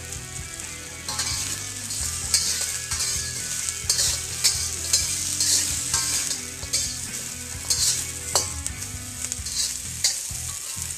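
Crispy fried chicken wings being stir-fried in a wok with oil, garlic and Thai chilies: a steady sizzle that swells each time they are tossed, with sharp scrapes and clacks of the utensil against the wok.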